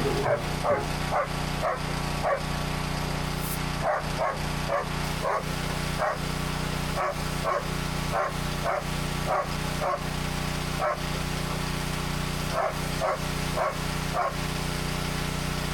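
A dog barking over and over at a fairly even pace, about one to two barks a second, over a steady low engine hum.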